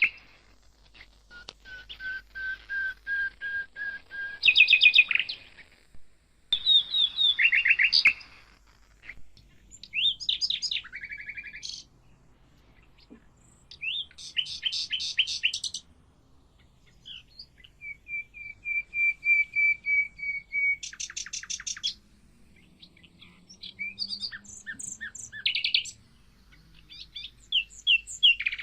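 Mockingbird singing a long string of varied phrases. Each phrase repeats one high note or trill several times over a second or two, then switches to a different note, with short pauses between phrases.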